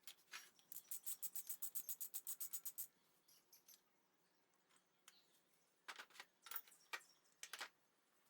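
A fast, even run of light clicks, about eight a second for some two seconds, then a handful of scattered clicks near the end.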